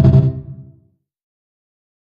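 Dholak music ending on a last loud, deep stroke that rings out and fades away within the first second, then silence.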